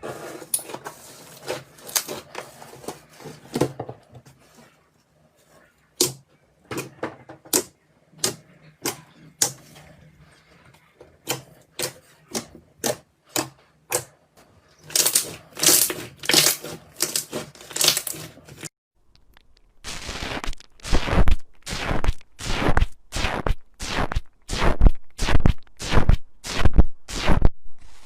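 Slime being squeezed and poked, giving a string of sharp clicks and pops. After a brief pause, the strokes turn heavier and deeper, about two a second.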